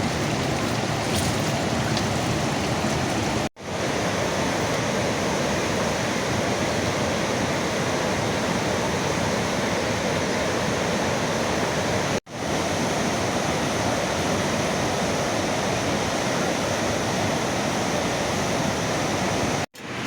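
Steady heavy rainfall, a dense even hiss. It drops out for an instant three times, at cuts.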